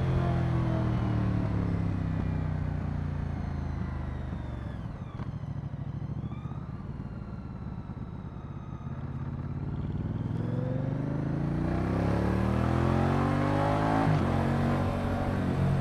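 Moto Guzzi V100 Mandello's transverse V-twin engine coming down in revs and going quieter for a few seconds, then accelerating hard with rising pitch from about ten seconds in, with an upshift near the end.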